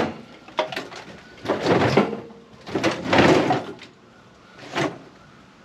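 Metal parts of a microwave being handled: a series of about five scrapes and clunks, the longest and loudest in the middle.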